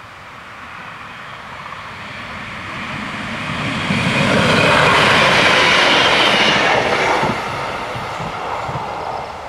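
A DB Class 628 diesel multiple unit passes over the level crossing. Engine and wheel noise grow louder as it approaches, are loudest about four to seven seconds in, drop off suddenly after seven seconds, then fade as it goes away.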